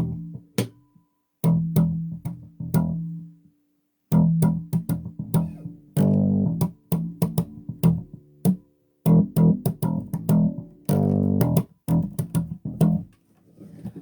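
Electric bass guitar played through an amplifier turned all the way up: short phrases of sharply plucked low notes, with brief pauses between phrases.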